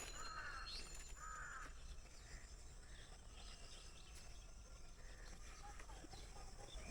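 Two short, harsh bird calls in the first two seconds, then quiet outdoor ambience with faint bird chirps.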